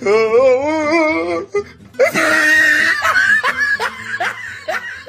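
Meme sound effects: a wavering, warbling pitched voice for about a second and a half, then, after a loud burst about two seconds in, a run of short rising laughs.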